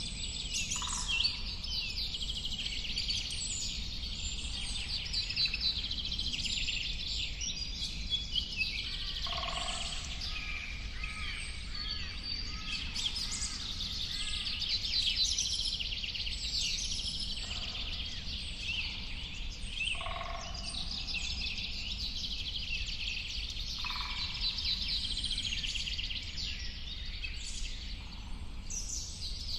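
A dense chorus of many birds chirping and singing at once, unbroken throughout, with a few lower, louder calls standing out about a second in, around the middle and near the end.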